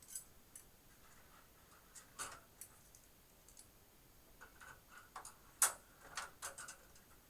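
Scattered light metallic clicks and taps of metal expansion-slot covers being fitted into a computer case, with a small cluster of clicks after the middle and the loudest single click a little past halfway.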